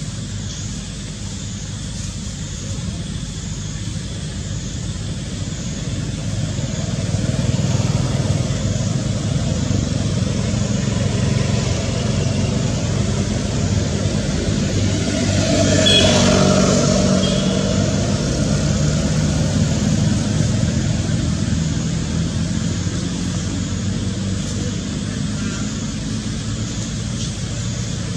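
Road traffic rumbling steadily, with a vehicle passing about halfway through, swelling and fading.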